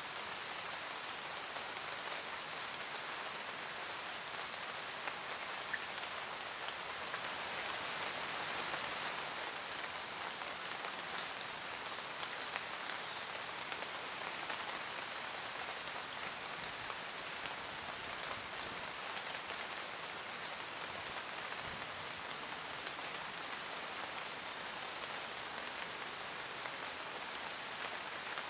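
Steady rain falling on forest leaves and ground, a dense even patter with scattered individual drops.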